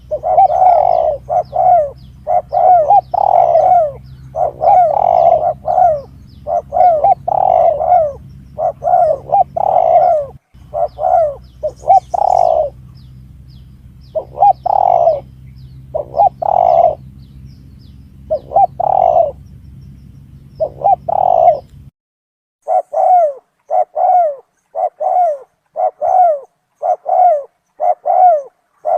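Spotted dove (tekukur) cooing repeatedly in short quick phrases, a lure recording played to attract wild doves. A low steady hum underneath stops about 22 seconds in.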